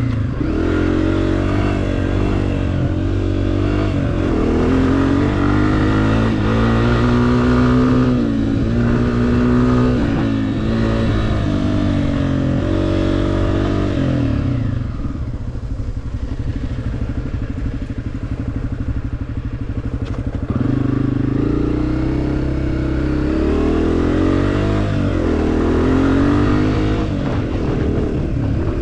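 Honda CRF250F dirt bike's single-cylinder four-stroke engine under way, revving up and easing off again and again as it is ridden, its pitch climbing through the gears. About 15 seconds in it drops to a low, steady run for about six seconds, then picks up and revs again.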